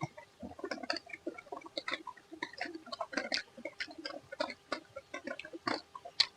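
Close-up eating sounds: a mouth chewing and crunching food, with irregular wet clicks and crackles several times a second.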